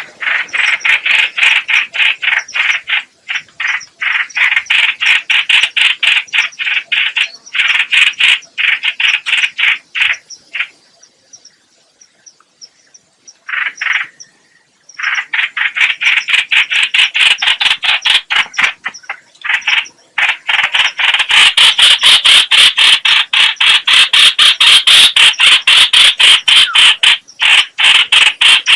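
Trao trảo (hoành hoạch) bird calling in a loud, rapid string of harsh chattering notes. The chatter breaks off for a few seconds near the middle, then resumes and carries on louder.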